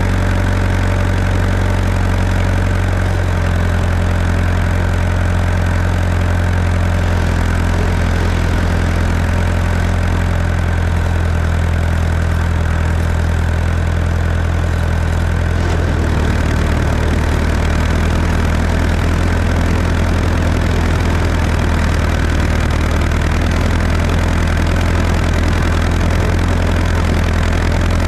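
Tractor engine running steadily under the cab, its note shifting and turning rougher about halfway through.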